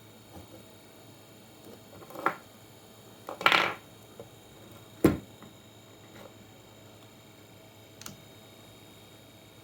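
Handling noises from small hard objects: a few scattered clicks and knocks, with a short scrape about three and a half seconds in.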